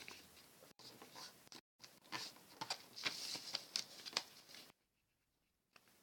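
A sheet of paper being folded and creased by hand: a run of soft rustling and scratchy creasing strokes. The sound drops out to dead silence for about a second near the end.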